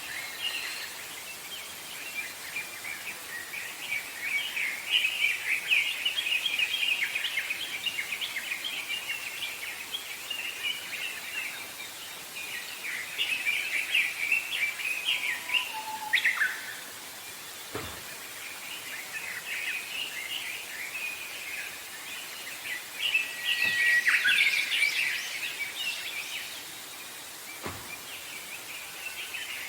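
Several small songbirds chirping and singing over one another in a forest, in rapid high trills and twitters that swell and thin out in waves, over a steady background hiss.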